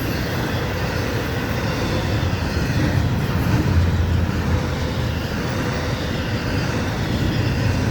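Florida East Coast Railway intermodal freight train's container and trailer cars rolling past, a steady low rumble.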